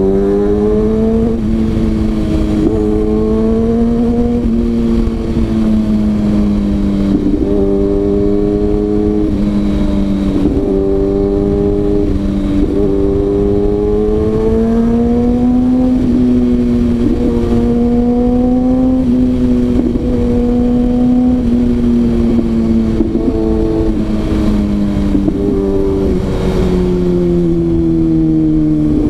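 Kawasaki ZX-6R's inline-four engine running under way, its pitch rising and falling again and again as the bike accelerates and eases off, over a steady rush of wind noise.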